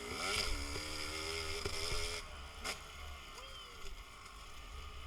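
Dirt-bike engine running with a wavering pitch, falling away about two seconds in, over a steady low wind rumble on the microphone.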